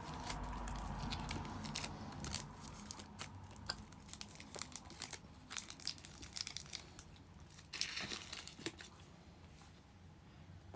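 Airheads chew bar wrapper crinkling and rustling as it is handled, with scattered sharp crackles throughout and a denser rustle near the end.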